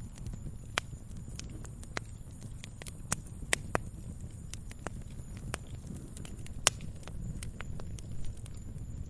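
Campfire crackling: irregular sharp pops and snaps from burning wood over a low, steady rumble of the flames, with a few louder pops standing out.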